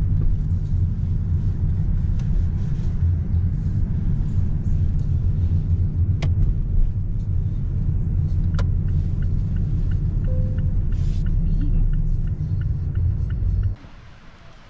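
Steady low rumble like a running vehicle, with two sharp clicks midway and a run of quick regular ticks near the end, cutting off abruptly.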